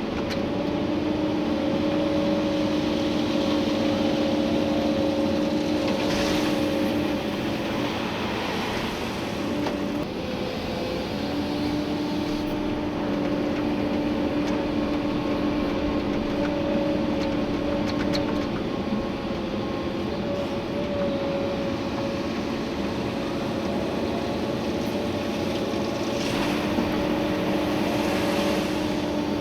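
Komatsu PC290-11 excavator running under working load, heard from the cab: steady engine and hydraulic noise with a whine that cuts out and returns several times as the machine digs, and two brief louder rushing swells, one early and one near the end.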